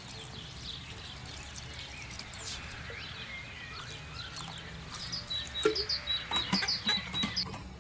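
Small birds chirping in the background over a steady low noise, with a run of quick sharp clicks and taps near the end.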